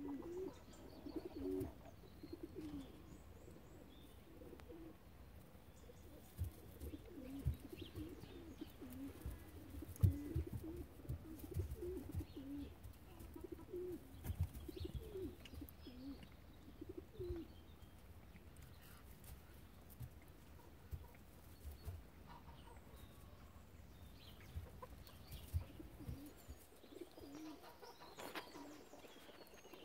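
Faint, low bird calls repeating over and over, pausing for several seconds past the middle and returning near the end, with soft low thumps in between.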